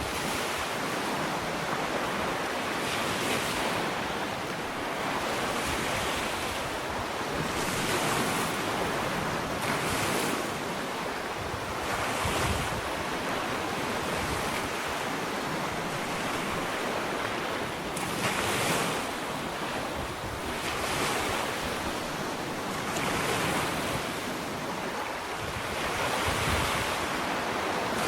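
Small ocean waves washing onto a sandy beach, in a steady hiss of surf with a swell of noise every two seconds or so as each wave breaks.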